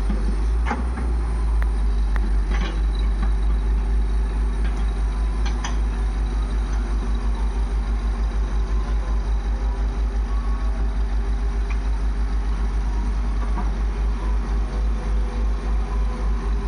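Heavy diesel engine running steadily at low speed with an even low throb, and a few sharp knocks in the first six seconds.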